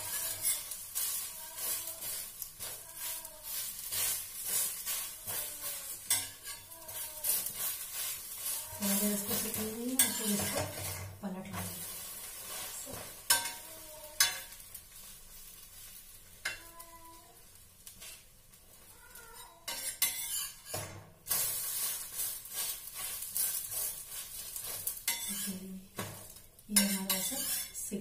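Bread sandwich sizzling in ghee on a hot flat griddle (tava), with a steel spatula scraping and knocking against the pan as the bread is pressed and turned.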